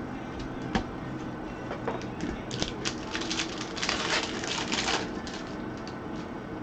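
Trading cards being handled and flipped through: scattered clicks and card-on-card rustling, thickest in the middle and thinning out toward the end.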